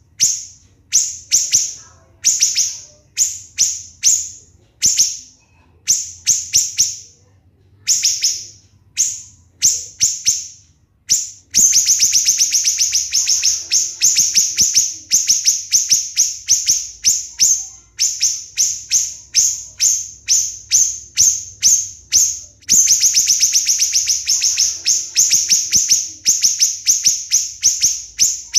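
Siri-siri bird singing shrill, sharp notes, spaced about one or two a second at first. From about eleven seconds in they become rapid, tightly packed strings of notes: the close-set 'tembakan' bursts that keepers use to tutor other songbirds.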